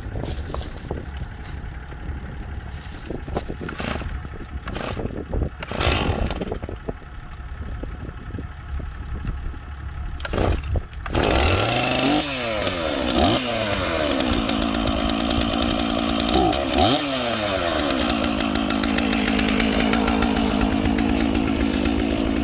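A few knocks over a low rumble, then about halfway through a Stihl 461 chainsaw starts, is revved up and down three times, and keeps running steadily.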